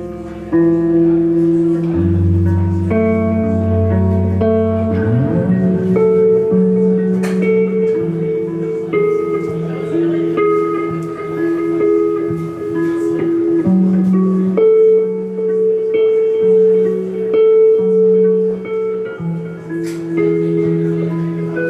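Guitar playing an instrumental passage of held, ringing notes and chords, with one note sliding upward about five seconds in.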